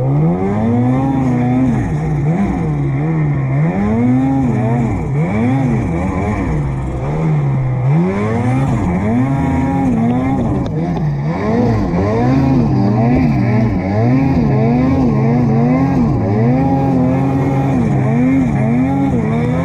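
Two-stroke Ski-Doo Summit 850 snowmobile engine revving hard and unevenly, its pitch climbing and dropping every second or two as the rider throttles on and off. This is a sled working its way up a steep slope through trees in deep snow.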